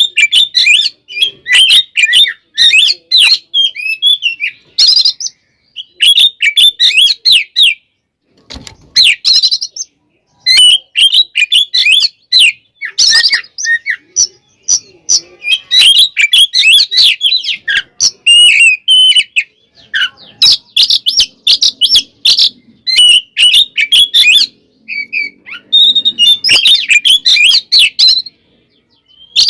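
Oriental magpie-robin (kacer) singing loud, rapid runs of varied whistled and chattering notes, in bursts broken by brief pauses. This is the full, aggressive song that kacer keepers use as a lure to provoke other males.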